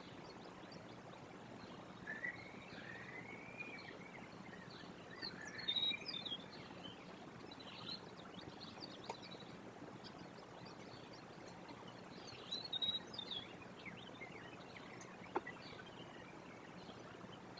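Birds outside calling and chirping in scattered bursts, some calls rising and falling in pitch, over a faint steady low hum.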